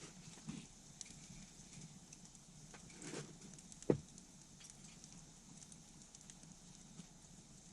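Wood campfire crackling softly, with scattered small snaps and one sharp pop about four seconds in.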